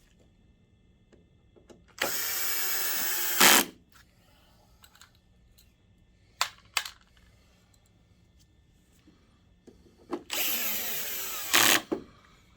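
Electric screwdriver running twice, about 1.5 s each, driving screws during reassembly; each run ends in a brief louder burst. Two sharp clicks fall between the runs.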